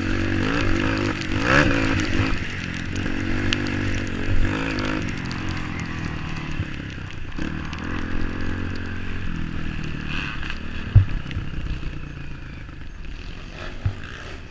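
Off-road motorcycle engine revving up and down, with scraping and clattering knocks and a sharp knock about eleven seconds in.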